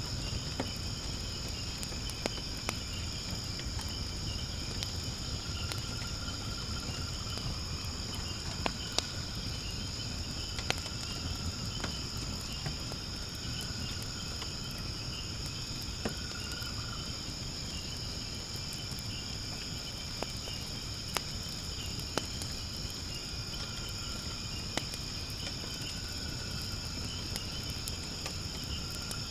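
Firewood burning in a fire pit, crackling with sharp pops every second or two over a low steady rumble, while a chorus of insects such as crickets trills steadily and high behind it.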